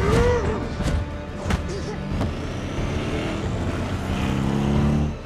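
Action-film sound mix: score music over car engine noise, with three sharp hits in the first couple of seconds.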